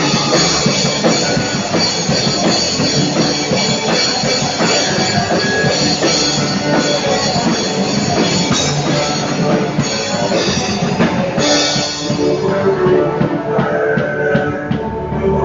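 Drum kit played along to a full-band gospel-rock song with electric guitar, drums and cymbals driving steadily. The cymbal wash thins out about twelve seconds in, leaving separate hits.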